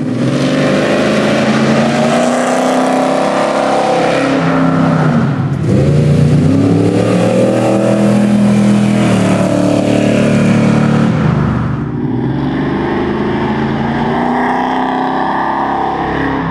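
V8 muscle-car engines revving hard, their pitch sweeping up and falling back again and again, in a few clips cut together. The engines include a 1969 Camaro SS. About twelve seconds in, the sound cuts to a quieter engine recording.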